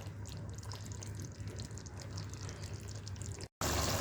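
Baingan chicken curry simmering in the pot, a quiet steady cooking sound over a low hum. A brief cut near the end gives way to a louder steady hiss.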